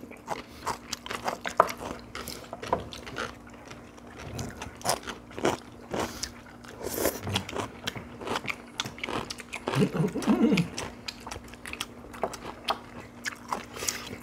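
Several people chewing and crunching food at a table, with many small, scattered clicks. A short hum of a voice about ten seconds in.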